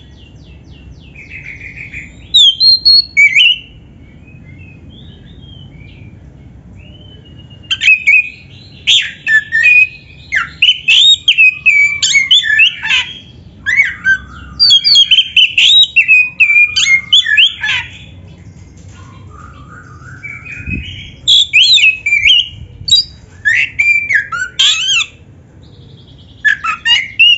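Oriental magpie-robin (kacer) singing in its fired-up, fight-mode song: loud phrases of fast, varied whistles and clicking notes, broken by short pauses.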